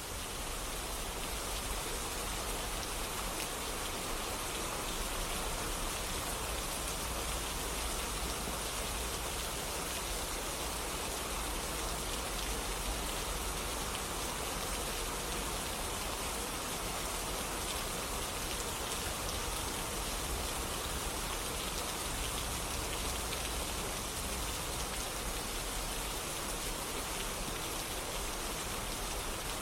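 Steady rain falling, an even hiss of drops with no breaks or swells.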